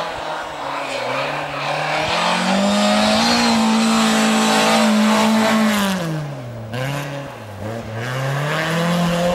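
Volvo 240 rally car's engine running hard: the engine note climbs for about two seconds and holds high and loud until about six seconds in, then drops sharply twice and climbs again near the end.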